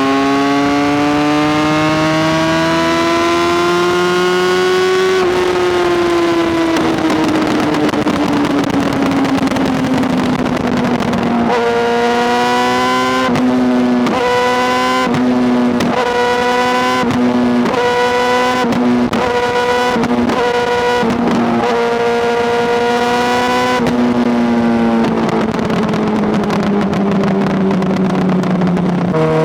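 Honda CBR600RR inline-four sport bike engine riding under load. The engine note climbs for about five seconds, then drops away. It then holds fairly steady with many brief interruptions in the note, and winds down again near the end.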